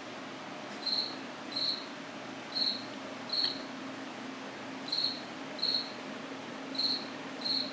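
A cricket chirping: short, high chirps in pairs about three-quarters of a second apart, a new pair every two seconds or so, eight chirps in all.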